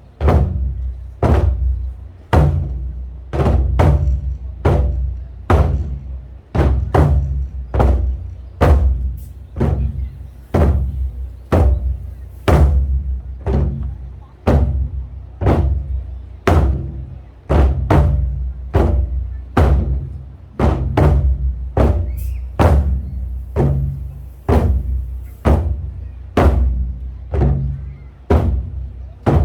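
Korean buk drums struck hard in a driving rhythm, roughly one to two heavy strokes a second. Each stroke has a deep boom that rings on beneath the next.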